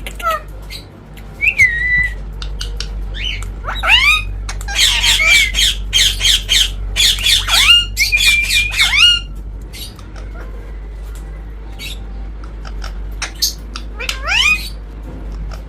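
Pet parrot squawking: a few scattered calls, then a run of loud, quick, repeated calls from about four to nine seconds in, and a couple more near the end.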